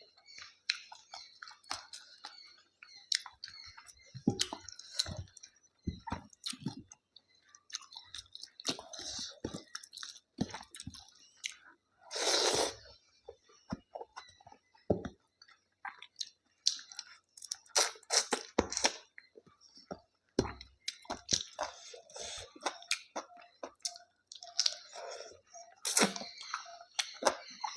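Close-up chewing of rice, chicken and salad: irregular wet mouth sounds, small clicks and crunches, with one louder noisy burst about twelve seconds in.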